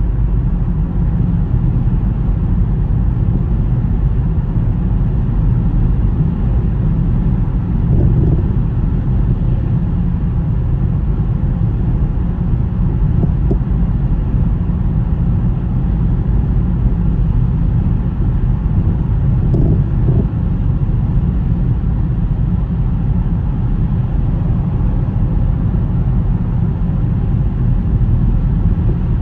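Steady low rumble of a car driving on a snowy road, tyre and engine noise, with slight brief swells about eight and twenty seconds in.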